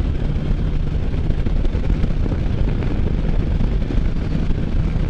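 Can-Am Spyder F3's three-cylinder engine running steadily on the move, with wind rushing over the microphone.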